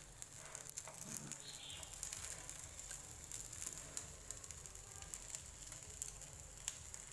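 Faint sizzling of bánh chưng (sticky rice cakes) frying without oil in a nonstick pan, as fat from the filling seeps out into the pan, with a few light clicks of wooden chopsticks against the pan.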